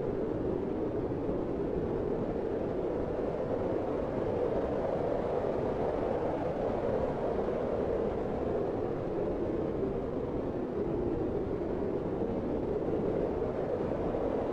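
Blizzard wind blowing steadily: a continuous rushing noise, strongest in the low middle, with no distinct gusts or breaks.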